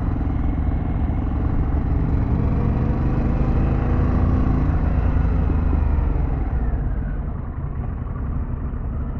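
Harley-Davidson Pan America's V-twin engine running under way, with a stack of engine tones that rise slightly around the middle. About seven seconds in the level drops as the rider eases off the throttle.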